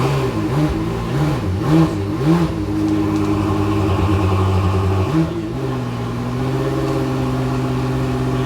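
Car engine revved in four quick throttle blips, then holding steady, with one more short blip about five seconds in before it settles into a steady drone.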